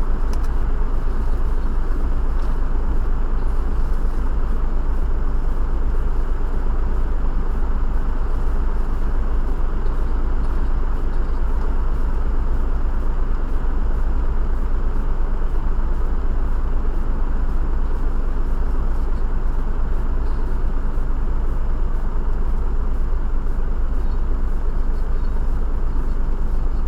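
Steady road and engine rumble heard inside the cabin of a moving car, deep and unbroken.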